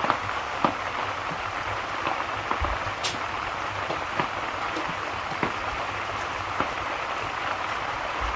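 Steady rain falling, with scattered light ticks and pops from a crackling fire. One sharp crackle comes about three seconds in.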